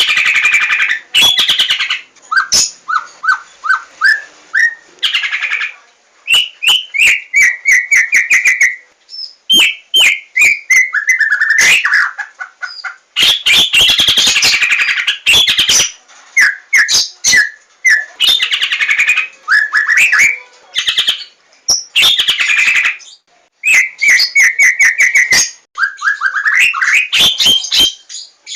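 White-rumped shama (Javan 'larwo' murai batu) singing loudly in varied phrases: runs of quick repeated whistled notes, rising and falling notes, and harsh chattering passages, broken by short pauses.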